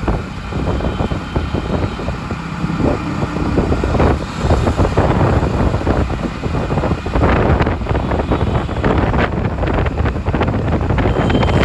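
Busy city road traffic, with vehicle engines running and wind rumbling on the microphone. A brief steady high tone comes in near the end.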